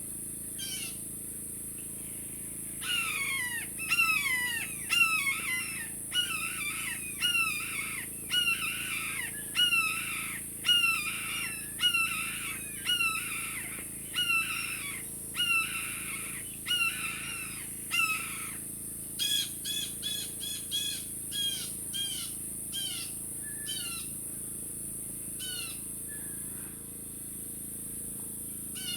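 Blue jays giving harsh, downward-sliding jeer calls over and over, several birds calling at once: alarm calls of a flock mobbing a red-tailed hawk. The calls come thickest in the first half and thin out near the end.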